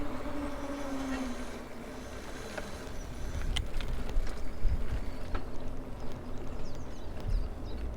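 Maxtron Mule folding e-bike's electric motor whining, its pitch dropping and fading out within the first second and a half. After that come rolling tyre rumble and wind on the microphone, loudest around the middle, with scattered clicks and a few high chirps.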